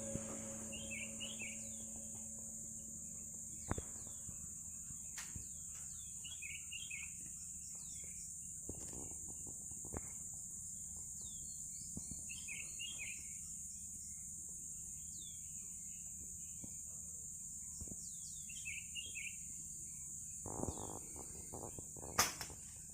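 Outdoor ambience of a steady high insect drone with repeated short bird chirps. Near the end, a single sharp shot from a PCP air rifle, a shot that misses.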